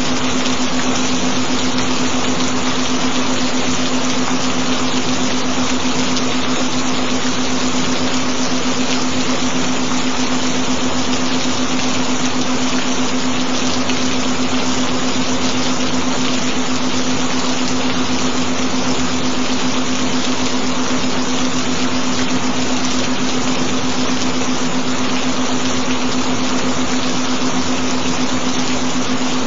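Recorded gentle rain, a steady, unbroken noise, with a constant low tone beneath it: the tone of a binaural-beat track.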